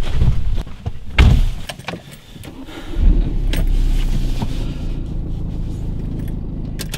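Keys jangling and knocks of handling inside a car, then about three seconds in the car's engine starts and runs steadily.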